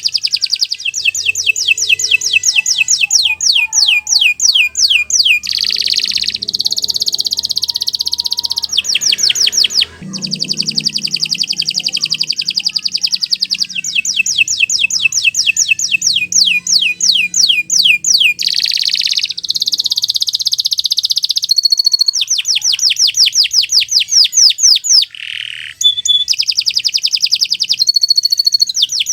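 Domestic canary singing a long, almost unbroken song of fast rattling trills of repeated notes, alternating with short held notes and buzzy rolls.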